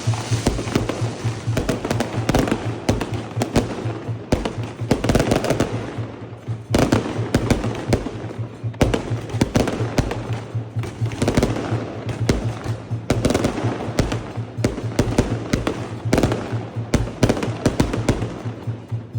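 Fireworks going off in rapid volleys of sharp bangs and crackles, with a steady beat of music underneath.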